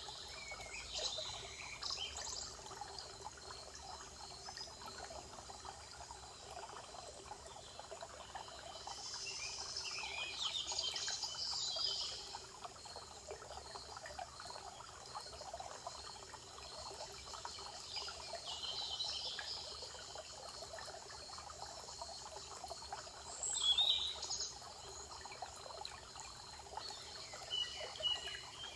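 Songbirds singing in short phrases every several seconds over a steady trickle of running water; the loudest phrase comes a little past three-quarters of the way through.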